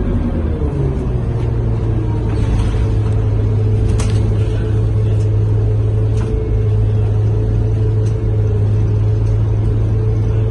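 Scania K230UB bus's diesel engine running under way, heard from inside the cabin: its note shifts and settles into a steady low drone about a second in, with a couple of light clicks or rattles.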